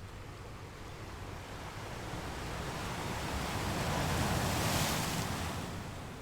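Sea waves: one wave swells over a few seconds, breaks in a hissing wash about two-thirds of the way through, then draws back.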